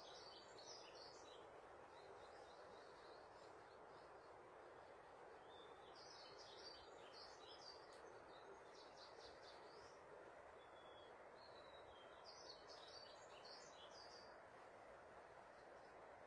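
Faint birdsong over a steady hiss: a bird sings short, busy phrases of high chirping notes about every six seconds, with quieter notes in between.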